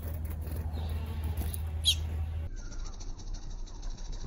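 A single sharp, wavering high bird chirp about two seconds in, over a low steady hum; the sound then changes abruptly to a quieter stretch with faint bird calls.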